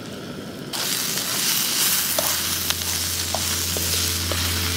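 Diced pumpkin, carrot and red onion sizzling in oil in a frying pan over a small gas stove burner, stirred with a few light scrapes. The sizzling starts suddenly about a second in and then holds steady, with a low hum underneath from about two seconds in.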